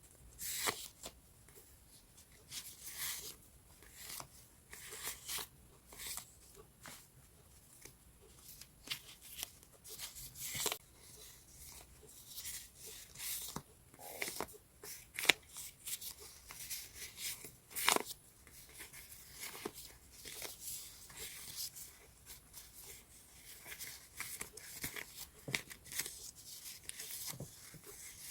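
Sheets of decorative paper being handled and leafed through: irregular crisp rustles and crinkles, with a few sharper taps and clicks.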